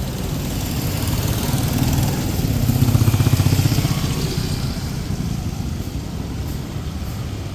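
A small motorcycle engine passing close by on the street, its rapid firing pulses swelling to their loudest about three seconds in and then fading away.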